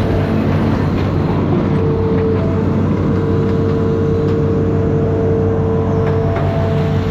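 Amphibious excavator's diesel engine running steadily, with a steady whine above it and a few faint clicks.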